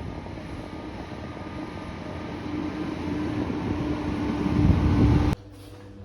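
Noise of a passing motor vehicle, growing steadily louder as it approaches, then cut off abruptly about five seconds in.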